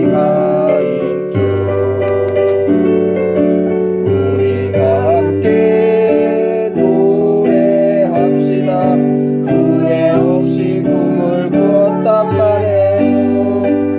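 A slow ballad on piano or electric keyboard: sustained chords changing every second or two, with a wavering melody line over them.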